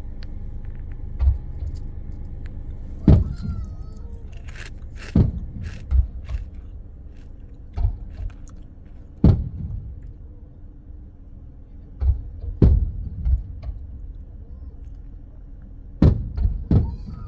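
Aerial fireworks shells bursting, about ten irregular bangs with short rumbling tails, heard from inside a car's cabin over a steady low hum.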